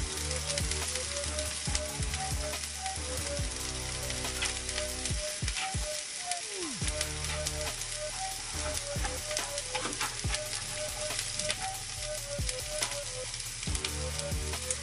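Onion and garlic sizzling in ghee in a frying pan. Over it, a grime beat instrumental plays, with a bass line and a repeating melodic figure, and a falling swoop about six seconds in.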